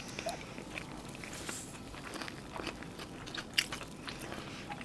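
Close-miked mouth sounds of someone biting into and chewing a soft rice-stuffed pocket, with small scattered clicks.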